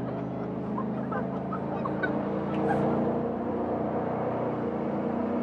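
Jet boat's engine running steadily at low speed, a humming drone that swells slightly after about two seconds.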